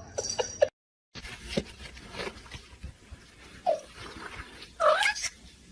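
A few short animal calls among soft knocks and rustles, the loudest call about five seconds in, after a brief gap near the start.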